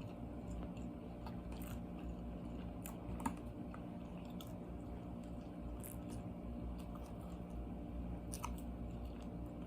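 A person chewing a mouthful of chicken sandwich with small wet mouth clicks, and one sharper click about three seconds in, over a steady low hum.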